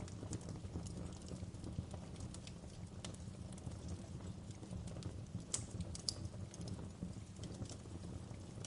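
Wood fire crackling in a fireplace: irregular sharp pops and snaps over a steady low rumble of burning, with two louder snaps a little past the middle.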